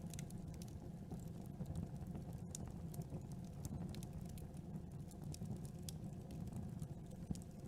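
Campfire crackling: frequent small, irregular pops and snaps of burning wood over a steady low rumble of the flames.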